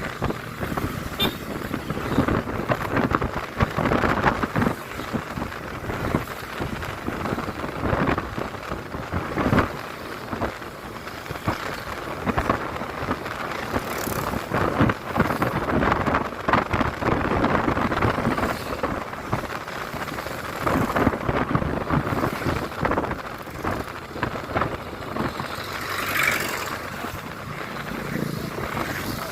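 Wind rushing and buffeting over the microphone of a motorcycle being ridden, with road and engine noise underneath, surging in gusts.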